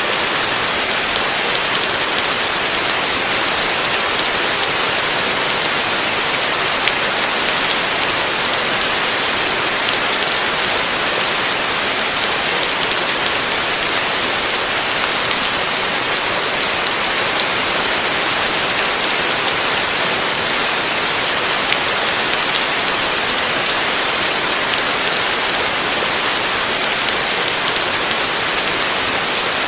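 Heavy rain falling steadily on a roof: a dense, even hiss with fine scattered drop ticks and no change throughout.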